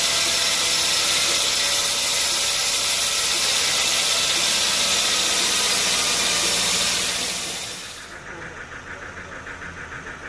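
Sawmill machinery running with a loud, steady hiss that fades away about seven to eight seconds in, leaving a quieter, evenly pulsing engine-like running.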